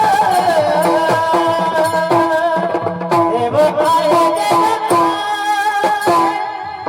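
Marathi kirtan music: a sustained, gliding melody over a steady, regular drum beat.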